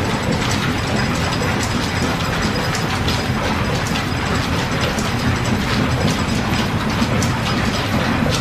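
Steam-driven workshop machinery running: a steady mechanical clatter with many small, rapid clicks.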